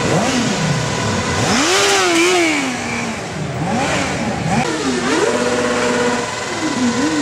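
Motorcycle with an open exhaust revved in neutral while standing: a series of throttle blips, the engine pitch rising and falling each time, with one longer rev held for about a second and a half near the start.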